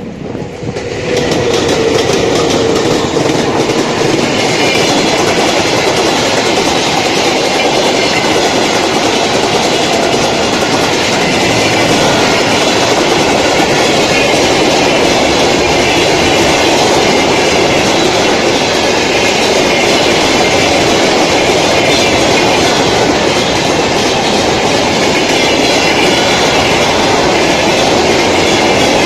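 A freight train, hauled by a VL80S electric locomotive coupled to a 2TE10UK diesel locomotive, passing close by. The noise rises sharply within the first second or two, then stays loud and steady as the train's wheels roll past on the rails.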